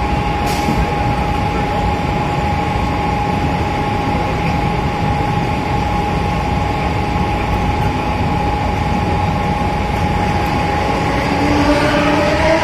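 A Mumbai suburban electric local train running at speed, heard from inside the coach: a steady rush and rumble with a whine held on one note. Near the end it grows louder, with a rising cluster of tones, as another local train passes close alongside.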